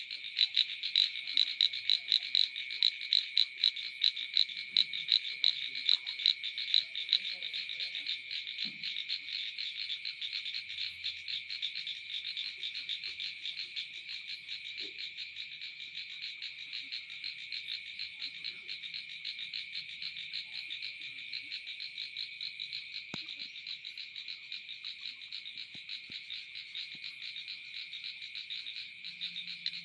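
A chorus of rice-field frogs calling. For the first seven seconds loud pulsed calls repeat about two or three times a second, then the chorus settles into a steadier, denser pulsing.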